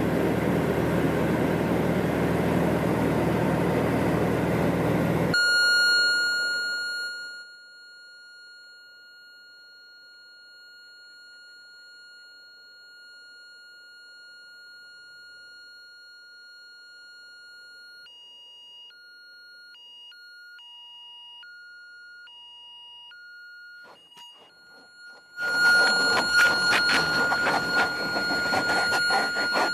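A loud rushing noise that cuts off after about five seconds, followed by a steady high-pitched electronic alarm tone. The tone pulses on and off for a few seconds and keeps sounding when loud rushing noise returns near the end.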